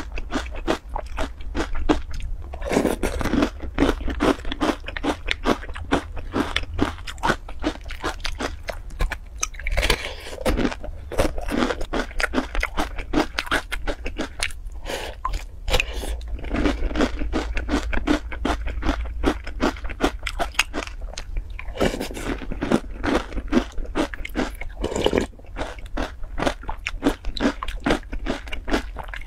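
Close-miked chewing of corn puffs soaked in milk: rapid, crisp crunching, many small crunches a second, broken by a few short pauses.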